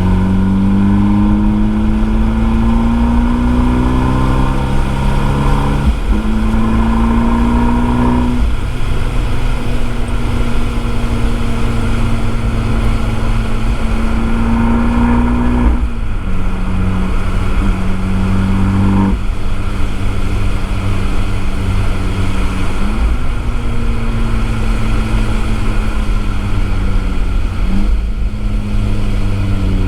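Abarth 595 Esseesse's turbocharged 1.4-litre four-cylinder under load at full throttle on a circuit, heard through its Akrapovič exhaust with a microphone in the boot. The engine note climbs and breaks at gear changes about six and eight seconds in, then holds high. It drops twice, about sixteen and nineteen seconds in, and climbs again toward the end, over a steady rumble of road and wind noise.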